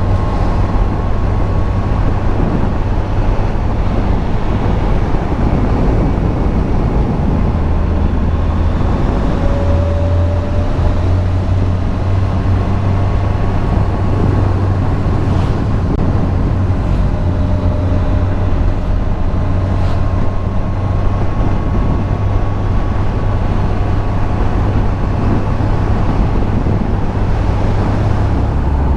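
2001 Yamaha FZS1000's inline-four engine running under way with wind rushing over the microphone. The engine note holds steady, with small shifts in pitch as the speed changes.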